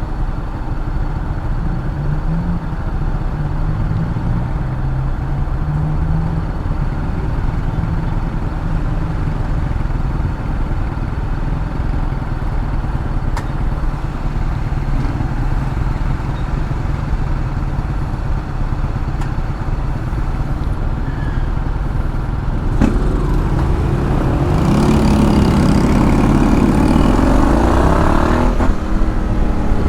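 Honda X-ADV 750 scooter's parallel-twin engine running steadily while being ridden, with road noise. About 23 seconds in the engine sound grows louder, and several rising notes toward the end show it speeding up.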